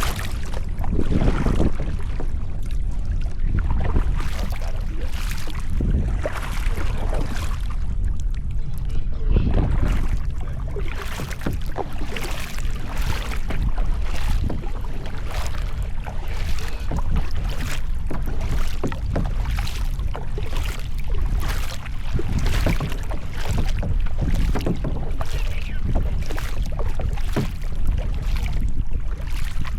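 Kayak paddle blades dipping and splashing in the water at a steady stroke rhythm, about one to one and a half strokes a second, over a steady low rumble of wind on the microphone.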